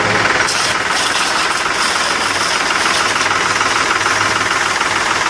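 Tractor engine running and driving the sprayer's triplex piston pump through the PTO, with a loud steady hiss of the high-pressure spray setting in about half a second in.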